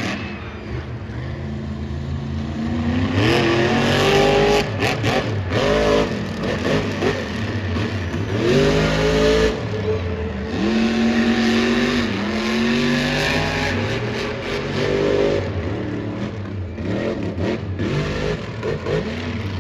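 Supercharged, alcohol-fuelled monster truck engines revving hard, their pitch climbing sharply again and again as they accelerate.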